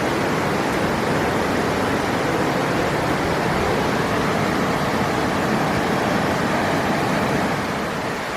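River water rushing, a steady, even noise that eases slightly near the end.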